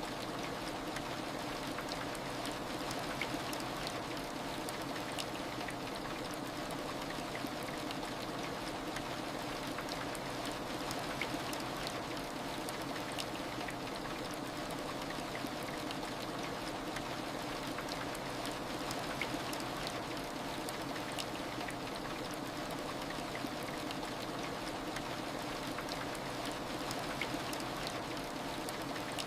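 Steady heavy rain, an even wash of rainfall with the patter of individual drops scattered through it.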